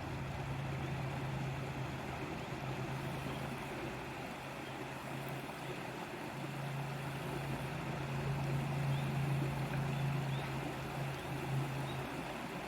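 Steady rushing of river water, with a steady low hum underneath that drops out for about a second around the middle.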